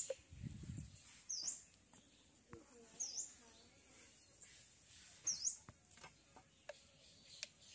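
A small bird calling: three short, high chirps that dip and rise again, about two seconds apart, with faint clicks between.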